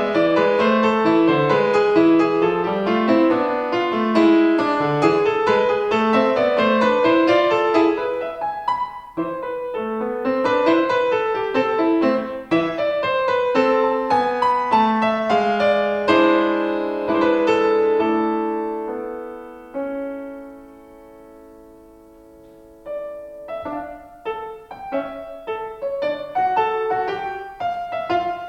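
Solo piano playing a slow melody over chords. About two-thirds of the way through, a held chord fades to a brief near-silent pause before the playing resumes.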